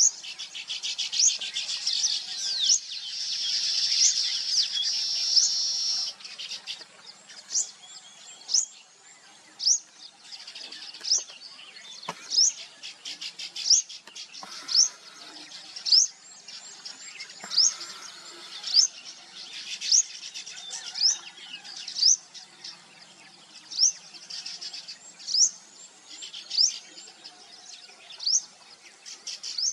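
Birds calling: one high, sharp, downward-sweeping chirp repeated about once every second or so, over a dense high twittering that swells for a few seconds near the start.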